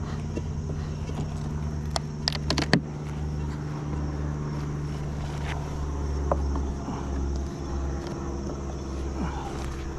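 Honeybees buzzing steadily around an open hive during an inspection, with a quick run of sharp clicks and knocks about two seconds in.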